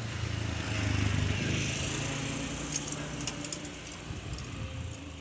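Toyota K-series four-cylinder petrol engine running, louder about a second in and then settling to a steady idle, with a few light clicks.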